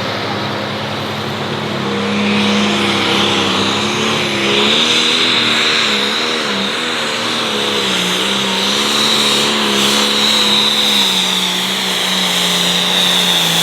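Pulling tractor's turbocharged diesel engine running hard under load, its pitch wavering up and down. A loud, high turbo whistle comes in about two seconds in and holds.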